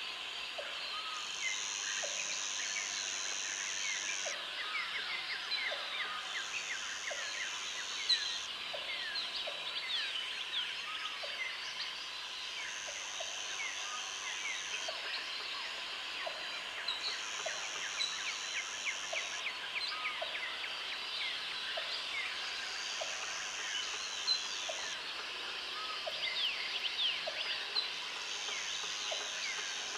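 Jungle chorus of insects and birds: many overlapping bird chirps and short whistles over a steady insect hum. A high buzzing insect trill comes in spells of two to three seconds, repeating every four or five seconds, and a short low note repeats about once a second.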